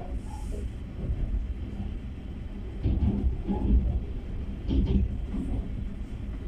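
Passenger train running along the track: a steady low rumble with louder surges about three and five seconds in.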